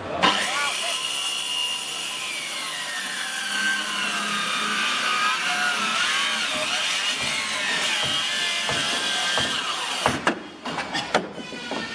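Power tool cutting wood, its whine wavering in pitch as the load changes, then a few sharp knocks near the end.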